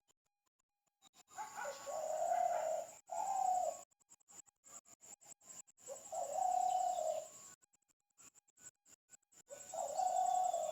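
A bird giving low, drawn-out calls: two close together near the start, then two more single calls a few seconds apart.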